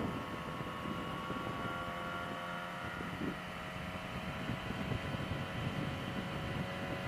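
Yamaha R6's inline-four engine running at a steady speed while the motorcycle cruises, with wind noise on the microphone.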